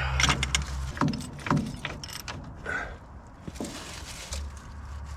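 Scattered metal clicks and clunks as a tool on the flywheel of an old Case backhoe engine is worked back and forth, slipping and catching without turning the engine over; the tool is stripping on the flywheel.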